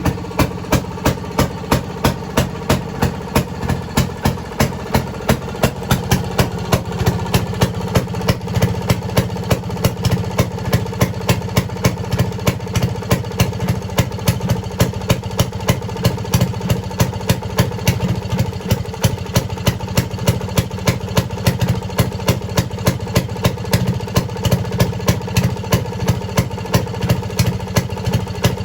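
Fairmont RO-C single-cylinder two-stroke engine running steadily, with an even beat of sharp exhaust pops.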